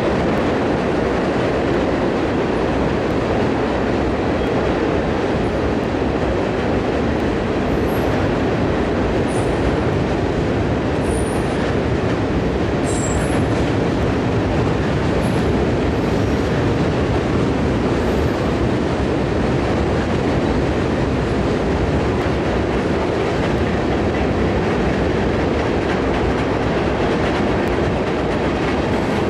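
Freight train cars rolling past, a steady rumble of steel wheels on rail. Several short, high squeals come in the middle.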